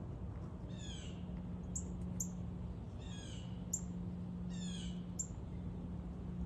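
A songbird calling: a short phrase of quick notes repeated three times, about every two seconds, with short high chips in between, over a steady low hum.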